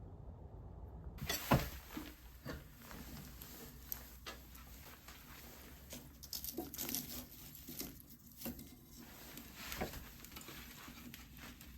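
Irregular light knocks and clicks with rustling between them, one louder knock about a second and a half in.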